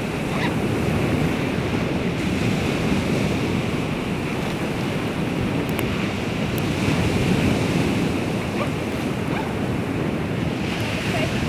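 Baltic Sea surf washing on the shore, a steady rushing noise, with wind buffeting the microphone.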